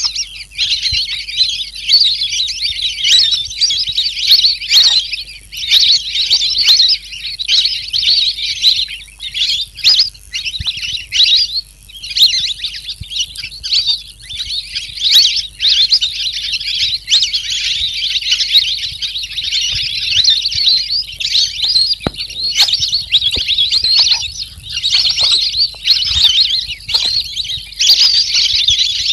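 Recorded calls of the bird the title names as the pikikat aleskuneng: a dense, continuous high-pitched chattering with only brief pauses.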